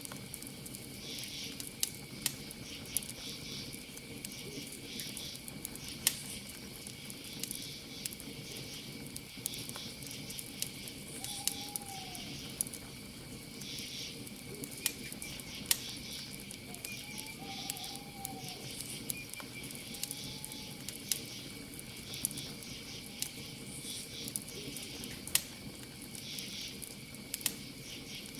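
Campfire crackling, with frequent sharp pops over a low steady flicker, under a continuous high insect trill and pulsing cricket chirps. A few short owl hoots come about a third of the way in and again past the middle.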